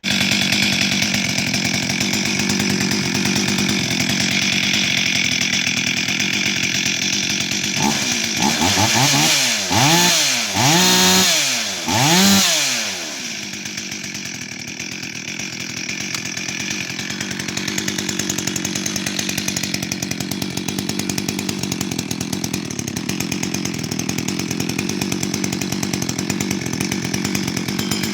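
Stihl MS 440 two-stroke chainsaw running with a modified muffler that has an extra exhaust port. It holds a steady note, is blipped about four times in quick succession around the middle, with the pitch rising and falling each time, then settles back to a steady idle.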